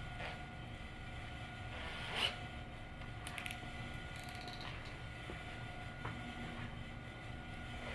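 A steady hum with a few short, faint scrapes or rustles.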